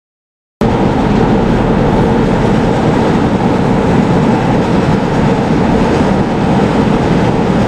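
Tractor engine running steadily under load while scraping feed along a cow feed bunk with a push plow, with a heavy rumbling noise. It cuts in abruptly after a brief silence.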